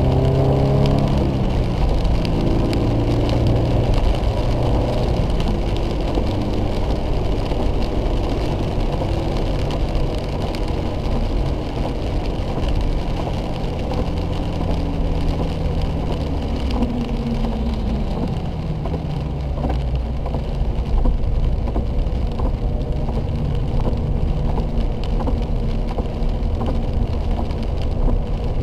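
Subaru BRZ's 2.0-litre flat-four heard from inside the cabin at part throttle as the driver backs off; the engine note falls as the car slows, with a steady rumble and hiss of tyres on a wet track.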